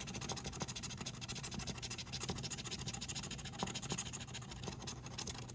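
Scratch-off lottery ticket being scratched: rapid, continuous fine scraping strokes across the coating, with a few sharper ticks.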